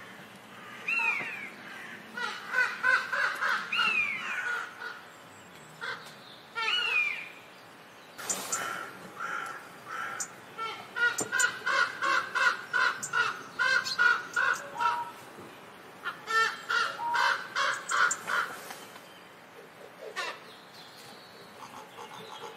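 A common buzzard gives a few down-slurred mewing calls. Then, from about eight seconds in, a common raven calls in long rapid series of harsh croaks that stop shortly before the end.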